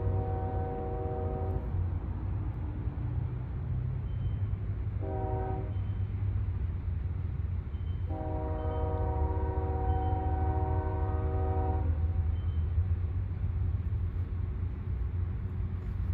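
Freight cars of a Union Pacific coal train rolling past with a steady low rumble, while the locomotive's multi-tone air horn sounds: the end of one blast, a short blast about five seconds in, then a long blast of about four seconds starting about eight seconds in. The long-short-long order is the grade-crossing signal.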